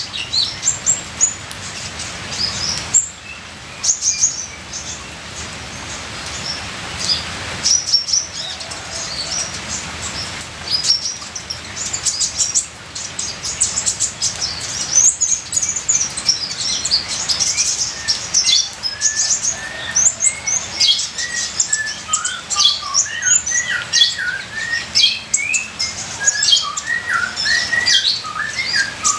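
Kolibri ninja sunbird singing a rapid, busy stream of high, thin chirps and twitters, with lower sliding notes joining in the second half. Under it runs a steady hiss of trickling water.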